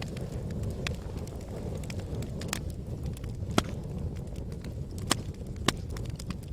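Wood fire burning in a fireplace: a steady low rumble of flame with sharp crackles and pops from the burning logs, a handful of them louder than the rest.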